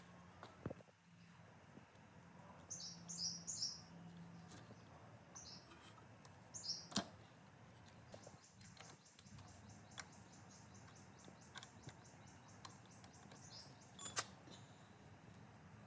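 A small bird chirping in short high calls, then a fast high trill lasting several seconds. A few sharp clicks sound over it, the loudest near the end.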